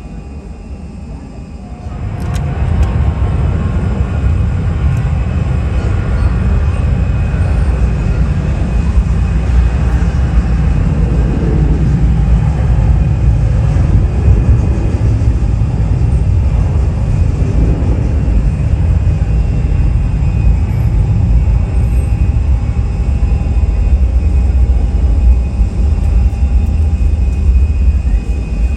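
Jet airliner's engines making a loud, steady rumble that comes in abruptly about two seconds in, with a faint steady whine above it.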